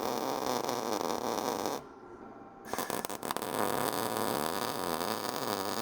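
MIG welder arc crackling and buzzing as short stitch welds are laid on thin-gauge sheet steel. The arc breaks off for about a second near two seconds in, then strikes again. The welder is running hot enough to blow holes in the thin steel.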